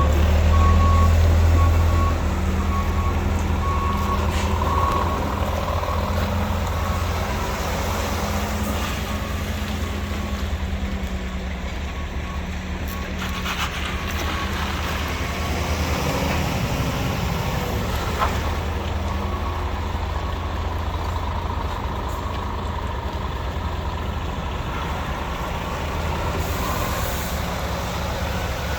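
Scania R450 truck's 13-litre six-cylinder diesel running at a steady idle. A reversing alarm beeps regularly for the first several seconds.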